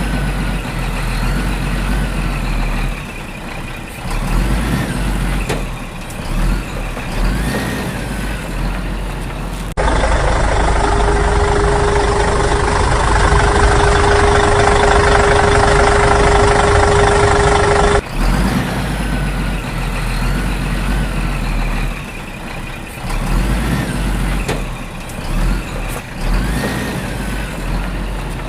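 Vehicle engine running in several edited segments, with a steady low rumble throughout. In the middle stretch a steady single tone sits over the engine noise.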